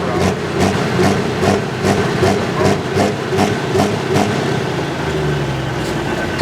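Heavy pulling tractor's engine idling, with an even pulse of about two beats a second.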